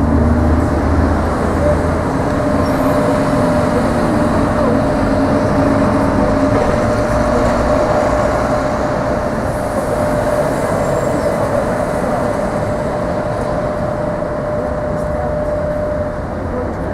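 Sheffield Supertram tram running at a city-centre stop: a steady rolling and traction noise with a thin steady whine that holds through most of the stretch, and a low hum early on that fades after a few seconds.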